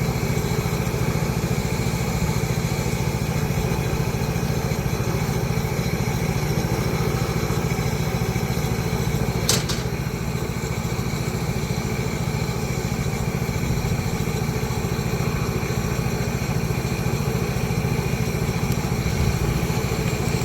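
A motor or engine running steadily with a low drone, and one sharp click about halfway through.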